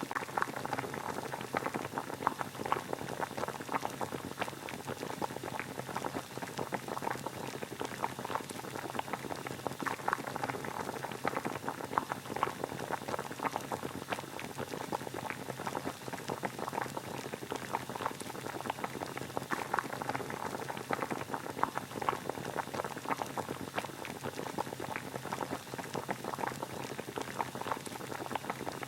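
Water at a rolling boil, a steady dense bubbling and popping that does not change.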